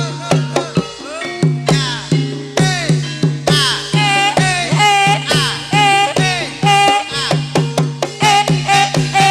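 Banyumasan gamelan music for the ebeg dance: hand drums struck in a fast, steady rhythm over repeated pitched metallophone notes, with the strokes growing denser near the end.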